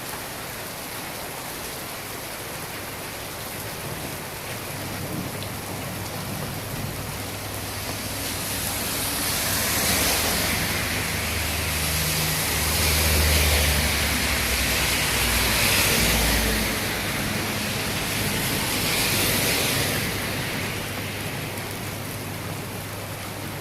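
Strong wind blowing in gusts, with rumble from wind buffeting the microphone. The noise builds from about eight seconds in, surges several times, then eases toward the end.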